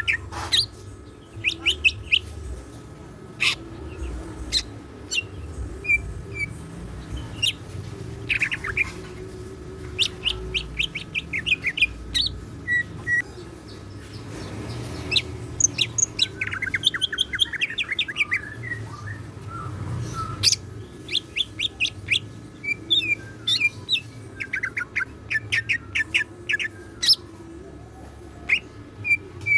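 Captive greater green leafbird (cucak ijo) singing non-stop, its song loaded with mimicked phrases. It comes in bursts of sharp chirps and rapid trills, with short pauses between them.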